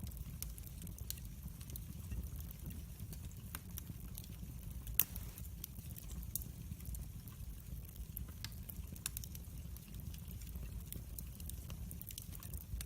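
Log fire burning in a fireplace: a steady low rumble of flames with scattered crackles and pops, the loudest a sharp snap about five seconds in.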